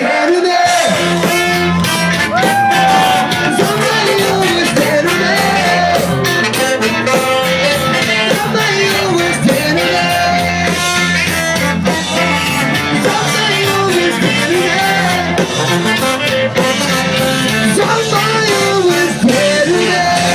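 Ska-punk band playing live through a PA: distorted electric guitars, bass and drums, with sung vocals. The sound is loud and somewhat distorted, as recorded from the crowd.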